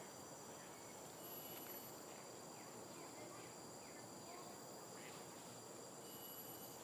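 Faint tropical rainforest insect chorus: several steady, high-pitched trills held at constant pitch, with faint short, downward-sliding calls scattered through.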